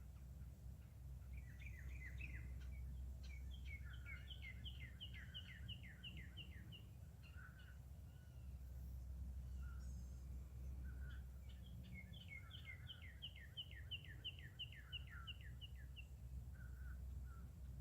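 A songbird singing twice, each song a quick run of repeated downslurred whistled notes lasting a few seconds, with a few scattered call notes between. Under it is a faint steady low rumble.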